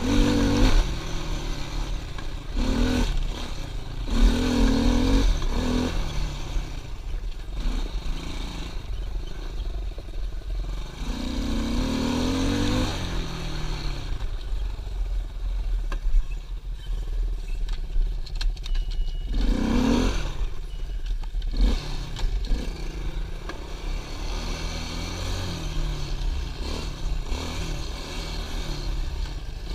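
Pit bike engine running, revved up in short bursts several times that rise and fall, with steadier lower running between them.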